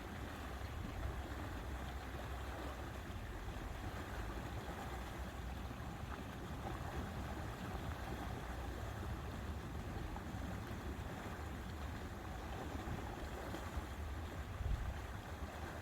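Steady wind rumbling on the microphone over lapping lake water, briefly louder near the end.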